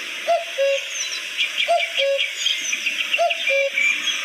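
Common cuckoo calling its two-note "cuck-oo", the second note lower, three times about a second and a half apart. Other small birds chirp throughout.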